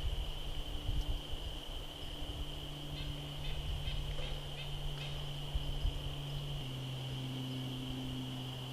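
Woodland insect chorus: a steady high-pitched drone, over a low steady hum that drops slightly in pitch about two-thirds of the way through. A few faint clicks come around the middle.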